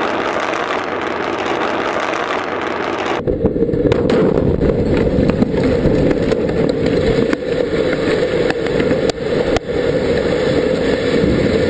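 Roar and rumble of a rocket exploding and burning on its launch pad, dotted with crackles and pops. About three seconds in the sound cuts abruptly to a louder, deeper rumble from a closer camera.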